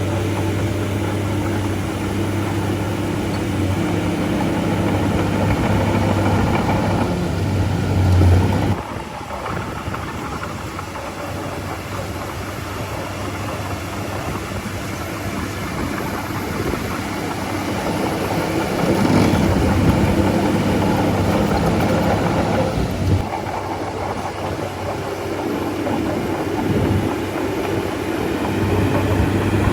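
Bulldozer's heavy diesel engine running under load, with a steady low hum. The engine note drops away about eight seconds in, builds again later, and comes back strong near the end.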